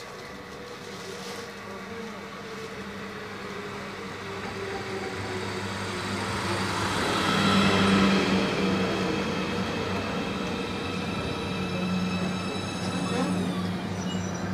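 Suburban passenger train approaching and passing, growing louder to its loudest about halfway through. Its running noise carries a steady low hum and a set of high whining tones that dip slightly in pitch as it goes by.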